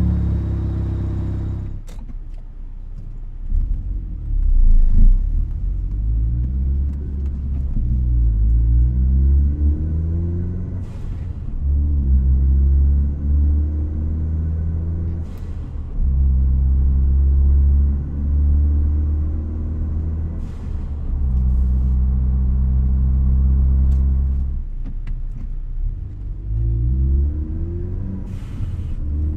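2016 Ford Focus ST's turbocharged 2.0-litre four-cylinder running through a COBB intake and cat-back exhaust, its pitch climbing several times and holding steady for long stretches in between. Brief sharp noises cut in about six times, each where the engine note drops.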